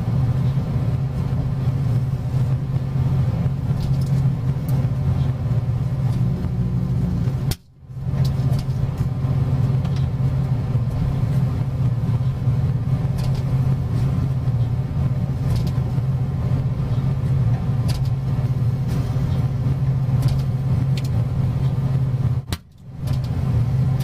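Microwave oven running with a laser appliance inside: a steady mains hum from the transformer, with faint scattered clicks. The hum briefly cuts out twice, about a third of the way in and near the end.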